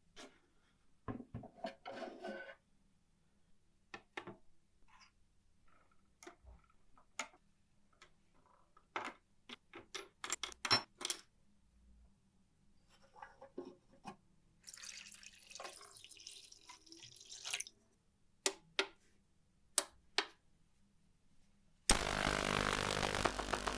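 Scattered small clicks, taps and clinks of small parts being handled, with a few seconds of hissing about two thirds of the way through. Near the end a motor-driven machine starts suddenly and runs loudly and steadily.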